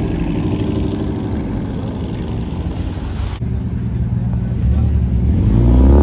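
Car engine running at low speed, with its pitch climbing near the end as it picks up revs.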